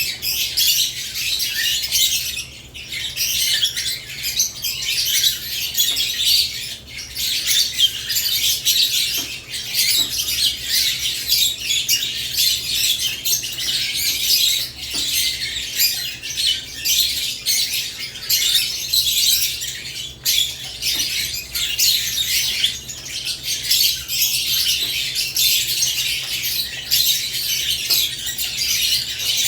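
Several caged lovebirds chirping and chattering nonstop, many high calls overlapping.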